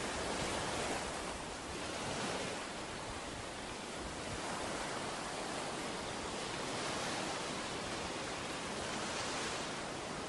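Ocean surf on a beach: a steady rush of breaking and washing waves.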